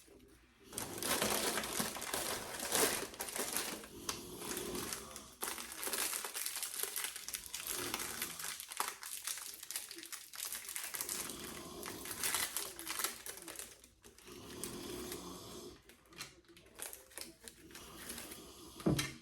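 Crinkling of a plastic cracker wrapper and the rustle and clatter of crackers being handled and laid in a row, going on almost without a break.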